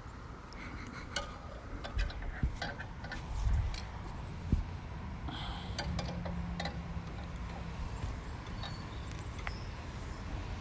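Scattered metallic clicks, clinks and knocks of tools and small metal parts being handled while working on a tractor's carburetor, over a low rumble.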